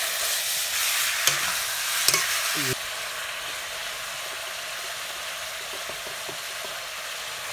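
Chicken pieces sizzling in a hot black iron wok, with a metal spatula scraping and stirring them. After about two and a half seconds the stirring stops and the frying settles to a steady, quieter sizzle.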